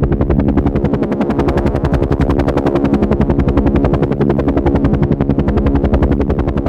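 Helicopter in flight: the rotor blades beat in a fast, even chop many times a second over a steady engine hum.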